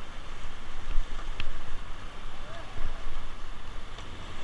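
Rushing river water splashing around a raft in the rapids, with wind buffeting the microphone.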